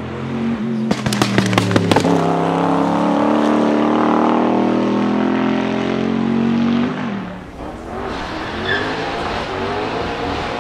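Noble M600 Speedster's twin-turbo 4.4-litre V8 passing, with a rapid string of sharp exhaust pops and bangs about a second in, which the uploader takes for an anti-lag system. It then holds a loud steady note for several seconds and breaks off about seven seconds in, followed by a quieter engine sound.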